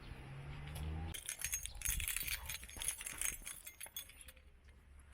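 A low hum stops about a second in, then rapid metallic jangling and clinking runs for about three seconds before fading.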